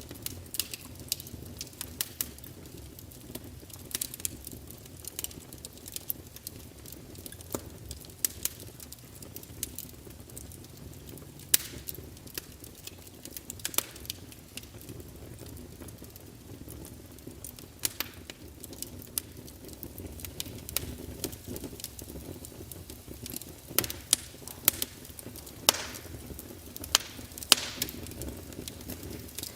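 Fire crackling: irregular sharp pops and snaps over a low steady rumble, coming more thickly near the end.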